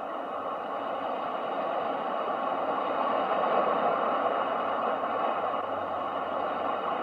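Ocean waves as a steady rushing noise, swelling to a peak about halfway through and easing off again.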